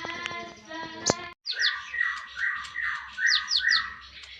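Sunbird (kolibri ninja) singing: a rapid run of clear, ringing notes, a sudden break about a second in, then fast repeated chirps with short high falling whistles.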